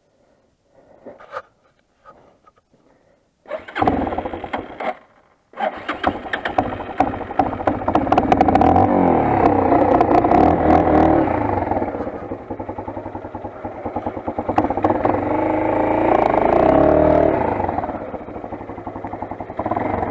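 Motolend XR 250 dirt bike's engine starting: it catches briefly about three and a half seconds in and cuts out, catches again a moment later and keeps running. It is revved up twice, then settles to a lower idle near the end.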